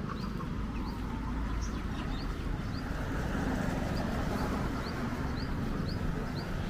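City street ambience: a steady rumble of distant traffic, swelling slightly midway, with small birds chirping over it in short, quick upward notes.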